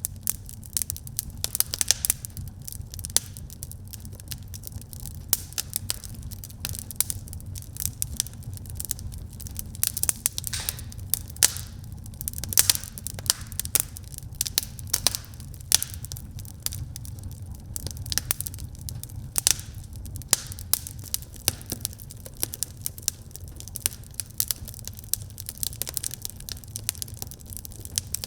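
Wood fire in a fireplace crackling, with many irregular sharp pops and snaps over a steady low rumble of the burning logs.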